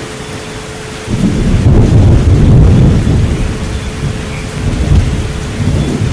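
Steady rain with thunder rumbling in low and heavy about a second in and rolling on to the end. A steady pure tone, the relaxation frequency mixed into the track, hums under the storm.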